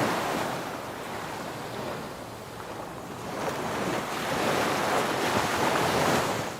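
Sea waves washing onto a beach, the wash building to a louder surge from about halfway and falling away near the end, with some wind on the microphone.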